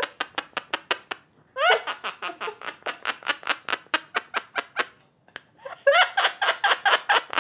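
Quaker parrot imitating human laughter: three bouts of rapid, clipped "ha-ha-ha" pulses at about five a second, each starting with a short rising squeal.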